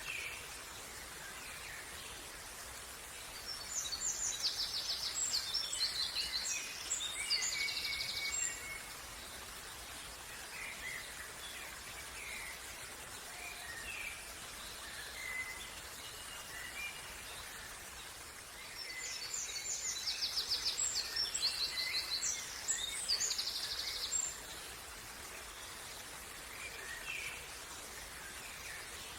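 Songbirds singing over a steady background hiss. A long, busy song phrase of rapid high trills and chirps comes twice, about fifteen seconds apart, with scattered single chirps in between.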